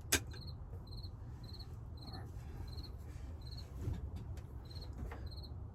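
A cricket chirping steadily, short high-pitched chirps about twice a second. A sharp click sounds just after the start.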